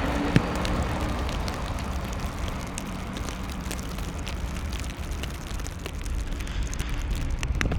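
Street traffic in a snowstorm: a passing vehicle's engine hums and fades over a steady low rumble of wind and traffic noise, with a sharp click about half a second in.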